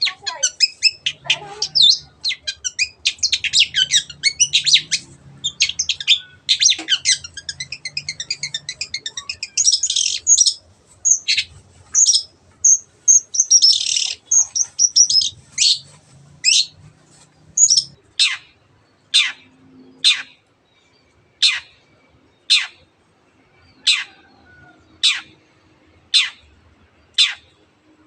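Long-tailed shrike singing: a fast, dense run of high mimicked notes, including canary-like trills, then, about two-thirds of the way through, a steady series of single downward-sweeping calls about once a second.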